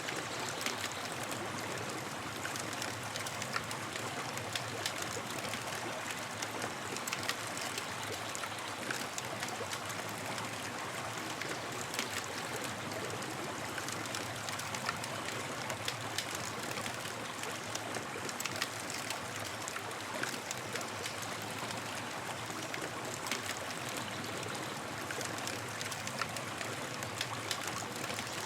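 Campfire crackling, with frequent small sharp pops over a steady rushing hiss.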